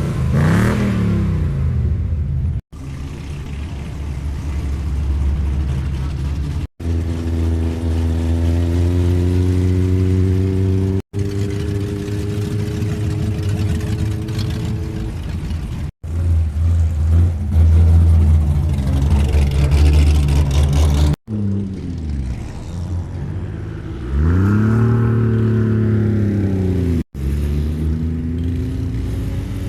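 Car engines running and revving in a series of short clips that cut off abruptly one after another. Near the end, one vehicle drives past, its engine pitch rising and then falling.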